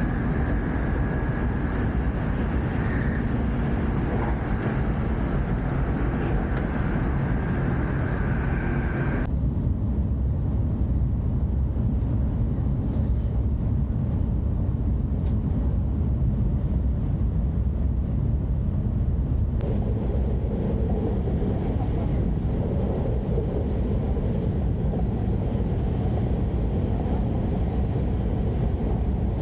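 Steady low rumble and rushing hiss of an E5-series Shinkansen at about 314 km/h, heard from inside the passenger cabin. The higher hiss drops away abruptly about nine seconds in and comes back about ten seconds later.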